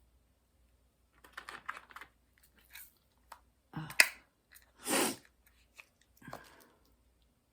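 Small handling sounds: a scatter of light clicks and rustles, with one sharp click about four seconds in and a half-second rustle just after it.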